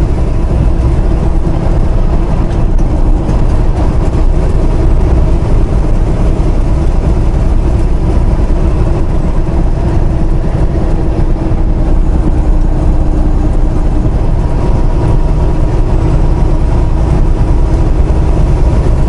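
Steady engine drone and low road rumble heard inside the cab of a moving semi truck, with a faint steady hum over it.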